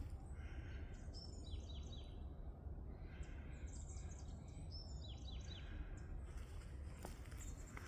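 A songbird singing two similar phrases of quick chirps and short falling notes, about three seconds apart, over a steady low rumble.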